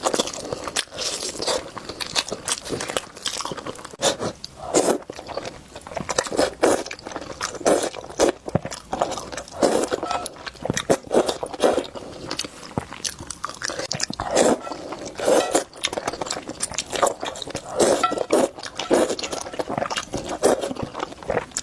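Close-miked eating of a chicken leg: a person biting and chewing the meat, with a steady run of irregular mouth clicks and bites.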